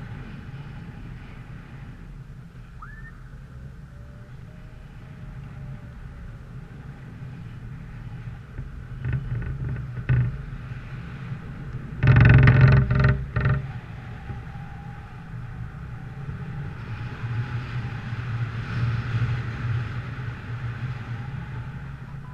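A vehicle engine running steadily at a low pitch, with a brief loud burst of noise about halfway through.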